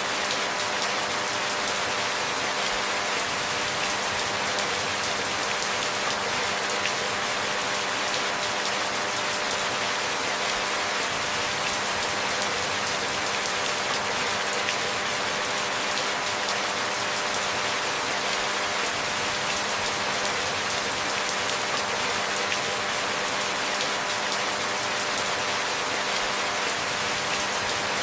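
Steady rain falling, an even hiss with no pauses or swells, with a faint steady hum underneath.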